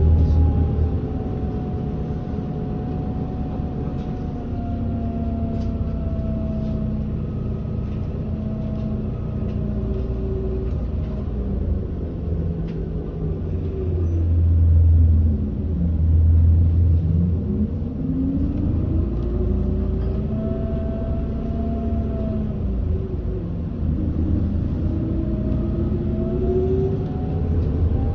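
Running sound of a 2020 Hino Blue Ribbon city bus (2RG-KV290Q3) heard from inside the cabin: a steady low rumble under engine and drivetrain whines that rise and fall with road speed. About halfway through the whines sink low as the bus slows, then climb again as it picks up speed.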